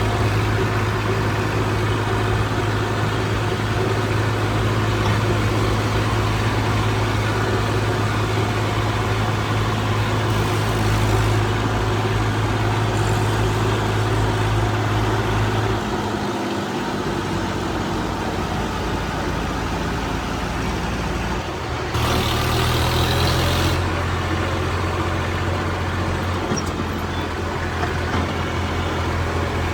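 Heavy diesel engine of a tractor or backhoe running steadily with a deep drone. About sixteen seconds in, the deep hum falls away; it comes back some six seconds later together with a short hiss.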